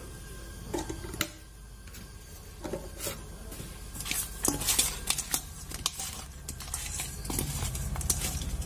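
A hand mixing raw fish pieces with turmeric and salt in a steel bowl: wet squishing, with the pieces knocking and scraping against the metal. It gets busier from about four seconds in.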